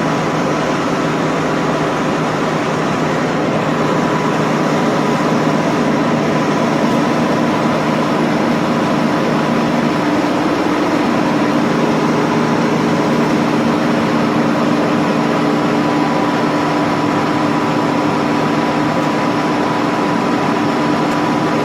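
Bullard vertical turret lathe running, a steady machine hum with several constant tones that never change in speed or pitch.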